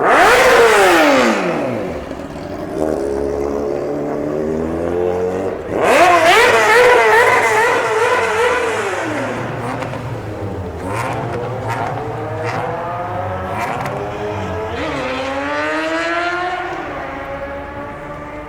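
An engine being revved hard several times. There is a sharp blip at the start that falls away, then lower steady running. About six seconds in comes a long high rev with a wavering pitch, and near the end another climbing rev.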